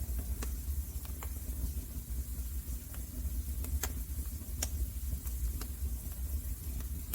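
Wood fire burning in a fireplace: a steady low rumble with scattered sharp crackles and pops, the loudest about four and four-and-a-half seconds in.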